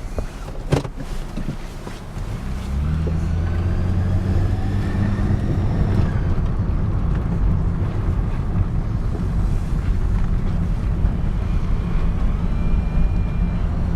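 1999 Chevrolet Malibu LS's 3.1-litre V6 driving, with a sharp click under a second in; about three seconds in the engine pulls harder, a faint whine rising with it, and it then runs steadily at speed with road noise.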